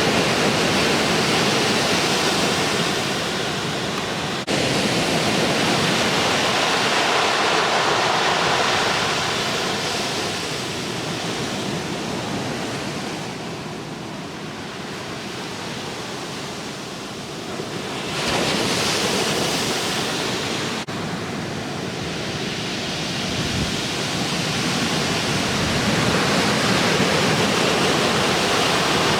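Ocean surf from a typhoon swell breaking and washing ashore, a constant rushing noise that swells and eases, with a louder surge about two-thirds of the way through.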